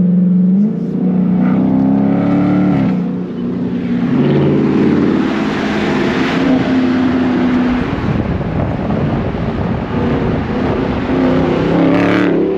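Car engine accelerating hard, its pitch climbing and then dropping as it shifts up, then pulling again near the end.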